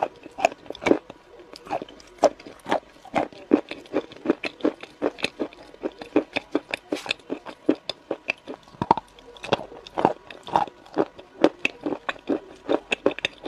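Close-miked crunchy chewing and biting, ASMR-style: irregular crisp crunches, two to four a second.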